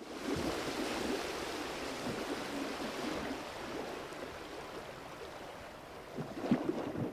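Steady rush and splash of water around a moving boat, easing off slightly, with a few light knocks near the end.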